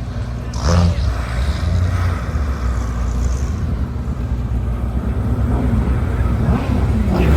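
Car engines running as cars drive slowly past: a steady low rumble.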